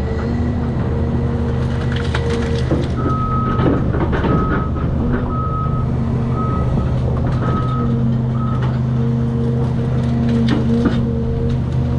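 Heavy earthmoving machine's engine running steadily, with a backup alarm beeping about eight times, roughly one beep every three-quarters of a second, starting about three seconds in. Occasional short knocks and cracks of debris sound over the engine.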